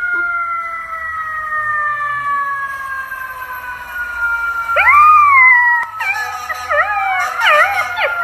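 A siren wails with a long, slowly falling tone, switching to a fast rising-and-falling warble about six seconds in. A golden retriever puppy howls along with it.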